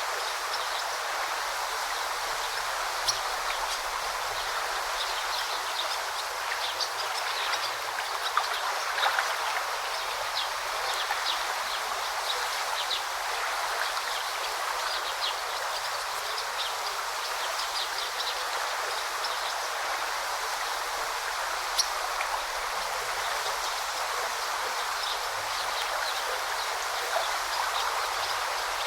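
River water flowing in a steady rush, with birds chirping in short, high calls scattered through it.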